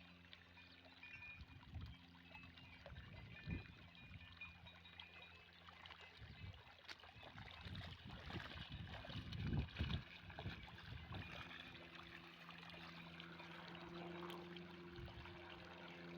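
Irrigation water flowing and trickling across the field, faint and steady, with a low steady hum underneath and a few low rumbling surges, the strongest about two-thirds of the way through.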